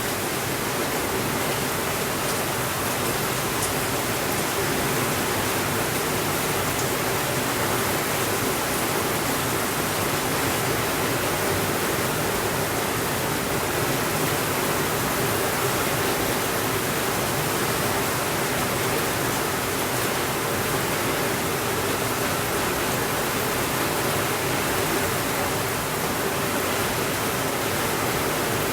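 Steady rainfall, an even hiss with a few faint ticks and no thunder.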